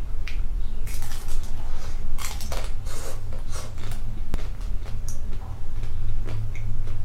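Close-miked eating: irregular crisp bites and chewing noises, several a second, over a steady low hum.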